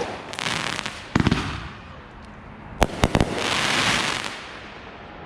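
Backyard consumer fireworks going off: clusters of sharp bangs about a second in and again near three seconds, each followed by about a second of crackling hiss.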